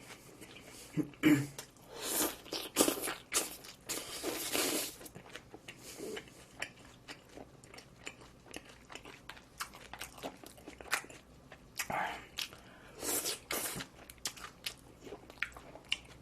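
A person chewing and crunching a mouthful of barbecued meat eaten with garlic chives: irregular wet mouth clicks and bites, with louder bouts of chewing a couple of seconds in and again later.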